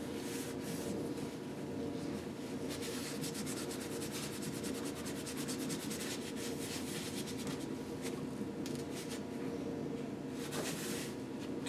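Steady scratchy rubbing made of many quick fine scrapes: a piston being cleaned by hand, scrubbed or picked at to clear old goo and carbon.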